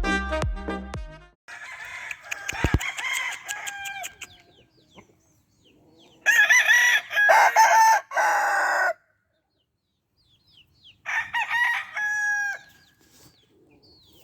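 Roosters crowing repeatedly, several crows in a row with pauses between, likely more than one bird; the tail of background music ends about a second in.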